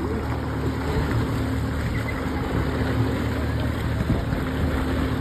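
Motorboat engine running steadily, a constant low drone with a steady hum.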